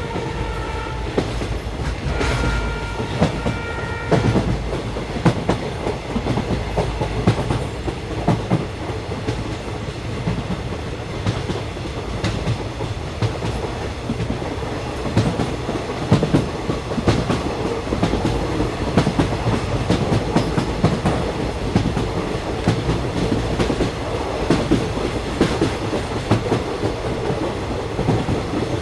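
A train running on rails, a steady rumble and hiss with many irregular clicks from the wheels passing over the rail joints. Early on a pitched multi-tone sound is heard twice, once as it opens and once for about two seconds.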